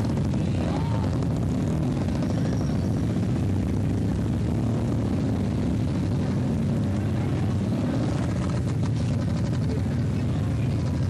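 Steady low rumble of motorcycle engines running in a crowd, with faint crowd chatter underneath.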